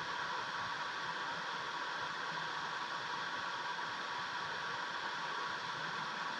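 Steady rushing noise of a mountain stream's flowing water, even and unbroken.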